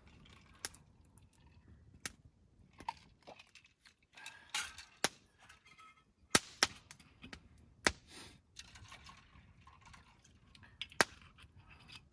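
Irregular sharp clicks and knocks, a few of them loud, with short stretches of rustling between.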